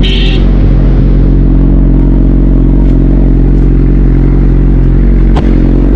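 Motorcycle engine running steadily at a constant speed, with one sharp click near the end.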